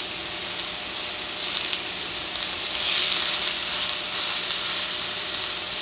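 Diced chicken breast and onions sizzling in hot oil in a stainless steel skillet. The sizzle swells about a second and a half in and is loudest around the middle.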